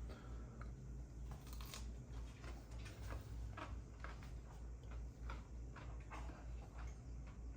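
Someone biting and chewing crisp refrigerator pickles made from lemon cucumbers: a run of faint, irregular crunching clicks, over a low steady hum.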